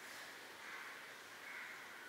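Quiet room with a faint steady hiss and a few distant harsh bird calls, about one a second.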